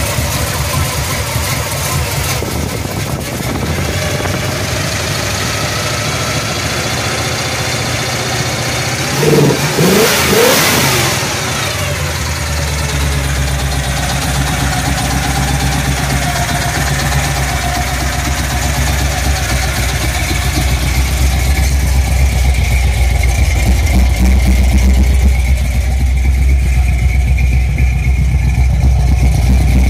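A 468 cubic inch V8 in a 1979 Pontiac Firebird Formula running at a steady idle, revved up briefly once about ten seconds in. The low rumble gets louder in the second half.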